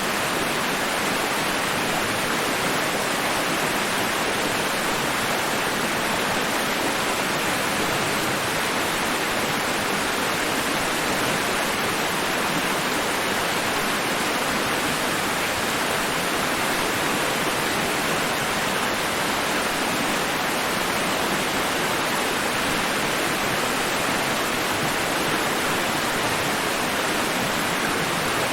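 Continuous white-noise hiss, even and unchanging, with no rise and fall of breaking waves.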